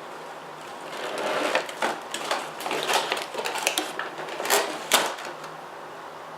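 A drone's shipping box and packaging being handled and opened by hand: irregular rustling and scraping, with two sharp clicks a little past the middle.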